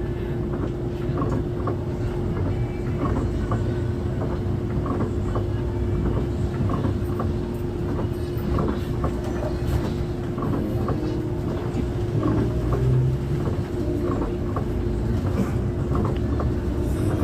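Steady road and engine rumble of a moving coach bus heard from inside the cabin, with a constant hum and light scattered rattling clicks throughout.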